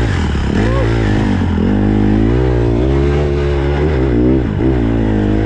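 Small four-stroke dirt bike engine revving up and down while riding, its pitch rising and falling several times as the throttle opens and closes.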